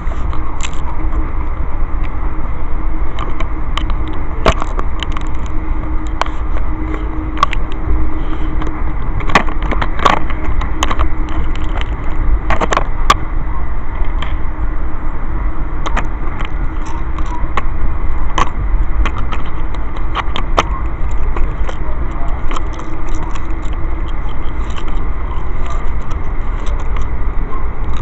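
Steady rumble of a moving Amtrak passenger train heard from inside the coach, with a faint steady hum and scattered clicks and rustles of bags and objects being handled close by.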